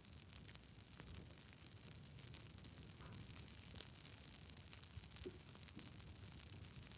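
Wood campfire burning, with frequent small crackles and pops over a soft, steady low rush.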